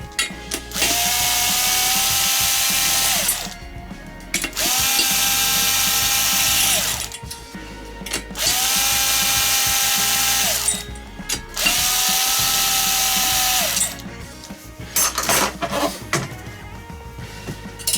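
A hand-held power tool run four times, each run two to three seconds long: the motor whines up, holds steady, then spins down. A few light metal clinks follow near the end.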